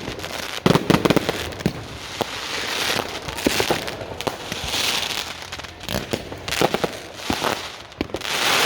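Fireworks going off: many sharp cracks and bangs over a crackling hiss that swells and fades several times.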